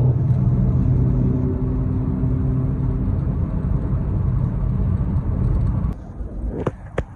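Vauxhall Vectra engine running loud and steady with a low drone, through an exhaust whose pipe has fallen off and been zip-tied back on. The sound cuts off sharply about six seconds in, followed by a few clicks.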